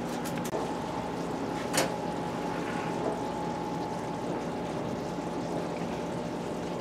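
Hamburger patties sizzling steadily in a stainless steel skillet on an electric stove, over a steady low hum, with one sharp tap of the metal spatula against the pan about two seconds in.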